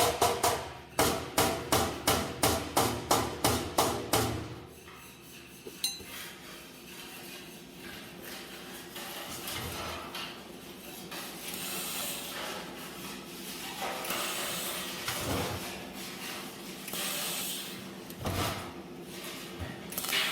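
A hammer striking steel plate in a quick run of about a dozen blows, roughly three a second, during the first four seconds. After that comes a softer, uneven scraping and hissing noise of metalwork.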